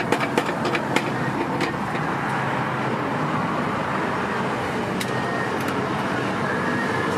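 Steady street ambience dominated by road-traffic noise, with several sharp clicks or taps in the first second and a half.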